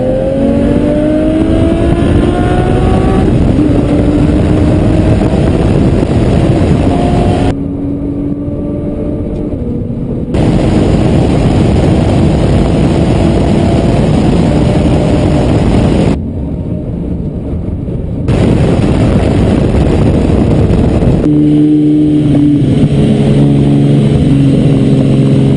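High-performance car engine accelerating hard at speed, its pitch climbing over several seconds at a time and twice easing off for a couple of seconds before pulling again, over heavy wind and road noise. The engine note holds steadier near the end.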